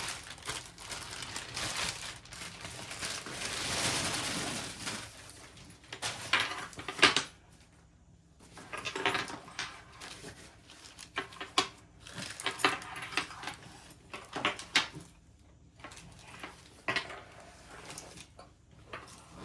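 Hands handling a new laptop backpack and its packaging: a long stretch of rustling and crinkling near the start, then scattered sharp clicks, knocks and clinks, of the kind that zipper pulls and buckles make, with short quiet gaps.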